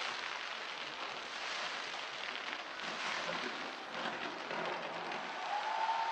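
Fireworks crackling densely over a crowd applauding and cheering, a continuous crackling hiss. About five and a half seconds in, a steady high tone comes in and is held.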